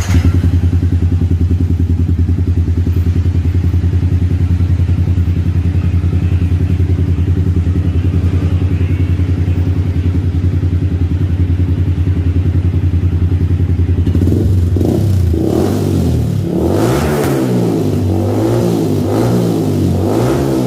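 Engine with a loud exhaust pipe starting up and idling with a steady low note, then revved up and down in repeated blips for the last several seconds.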